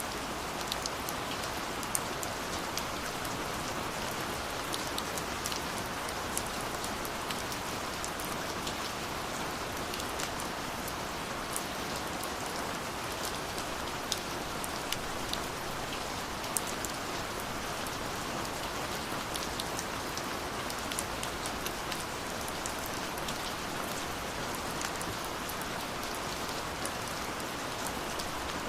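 Steady rainfall, a constant hiss with many individual drops ticking on a surface.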